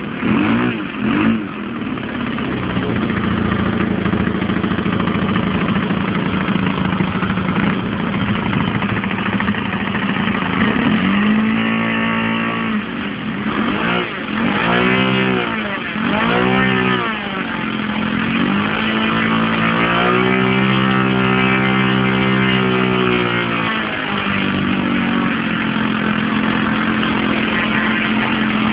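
SC91FS four-stroke glow (nitro) model-aircraft engine running at a steady idle while warming up, throttled up briefly a little before halfway, blipped twice just after, then held at higher revs for about four seconds before dropping back to idle.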